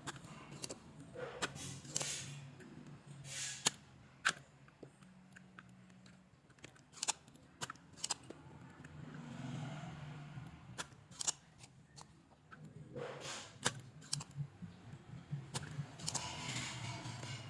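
Irregular sharp clicks and knocks of hand tools and small metal parts being handled during repair work on a battery charger, over a faint low hum.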